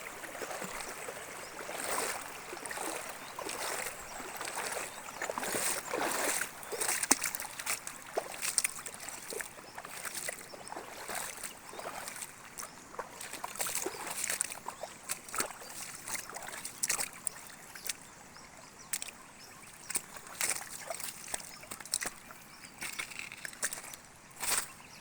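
Water sloshing and trickling, with irregular small splashes.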